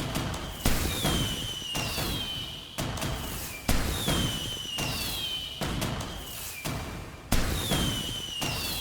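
Fireworks going off in quick succession: sharp bangs about once a second, each fading over a second or so, several followed by a falling whistle.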